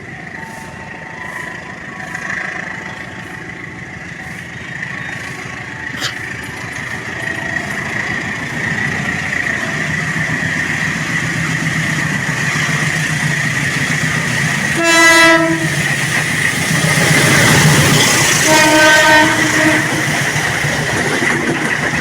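Long-distance passenger train approaching and passing, its running noise growing steadily louder. The horn sounds twice, a short blast and then a longer one a few seconds later.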